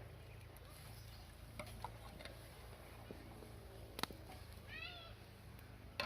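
A short, pitched animal call about five seconds in, over a low steady hum, with sharp clicks just before it and at the very end.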